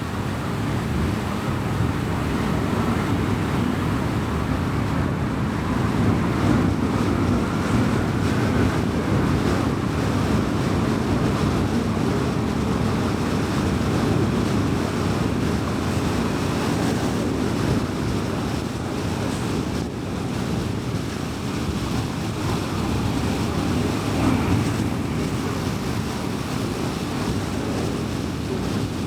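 Car driving at speed on a highway: a steady rush of tyre and road noise with the engine running underneath.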